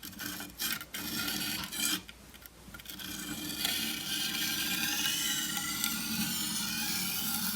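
Steel edge of a chef's knife scraped along a coarse Washita Arkansas whetstone: a few short strokes at first, then steady continuous scraping from about three seconds in.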